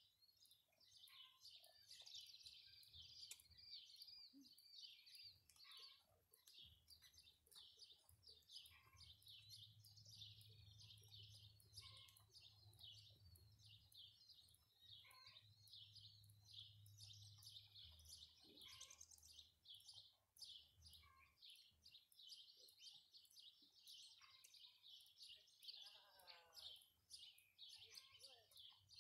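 Faint chorus of small birds chirping and twittering without a break, with a low steady hum underneath from about a third of the way in until about two-thirds through.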